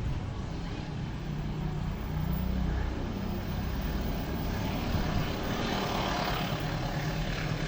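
Diesel locomotive engine running with a steady low drone, with a rushing noise growing from about halfway through as the train comes closer.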